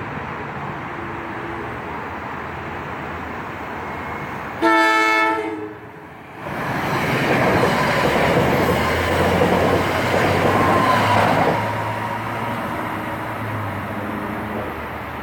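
A train sounds one short horn blast about four and a half seconds in, lasting about a second, then passes close by, loudest for about five seconds before fading.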